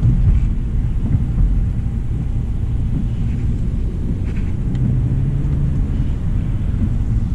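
2025 Hyundai Elantra SEL driving along, with a steady low rumble of road and engine noise.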